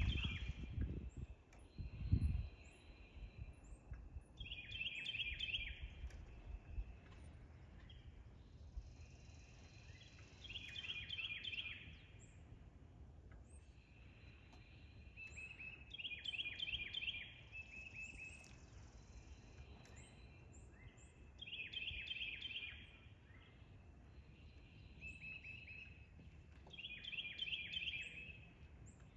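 A songbird sings a short phrase of rapid repeated notes about every five and a half seconds, over a steady low background rumble, with two low thumps in the first two seconds.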